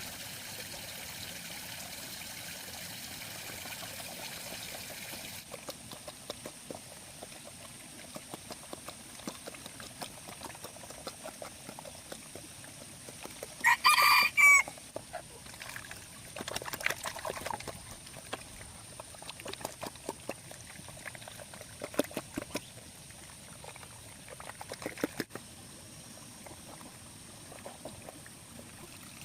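Water trickling for the first few seconds, then scattered small clicks and rustles, with one loud pitched call lasting about a second midway through.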